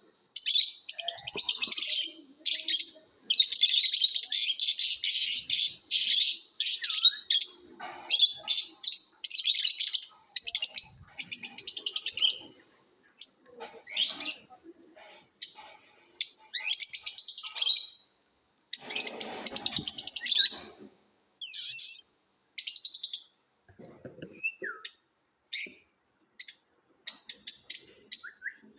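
Lovebirds chattering and chirping in high-pitched, rapid bouts: long unbroken runs in the first half give way to shorter, separate calls with brief pauses between them.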